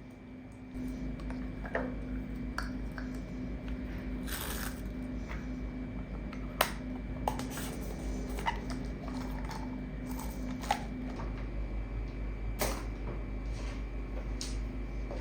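Dogs moving about, with scattered sharp clicks and taps over a steady low rumble.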